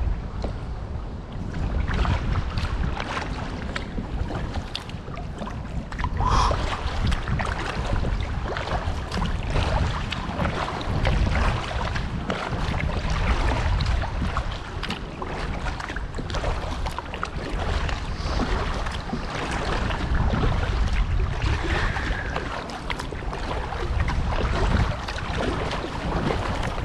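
Strong wind buffeting the microphone in a low rumble, over water splashing and lapping irregularly.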